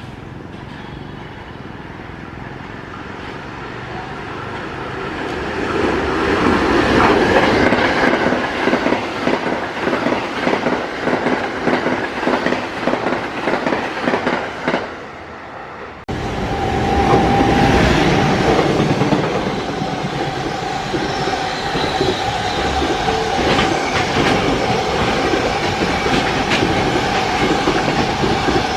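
Electric train running through a station, its sound building up and then its wheels clattering rapidly over the rail joints. It cuts off abruptly about halfway through, and another train follows with a steady high whine over the same wheel clatter.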